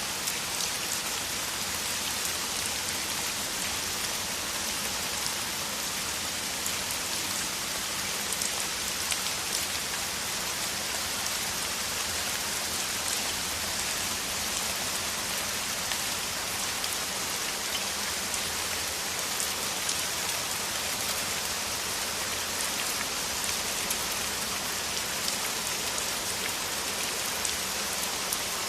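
Steady heavy rain, a dense hiss of drops with fine individual ticks, unbroken.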